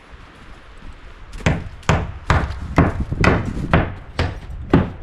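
Repeated sharp blows of a tool on wood, about two a second, starting about a second and a half in after a quiet start.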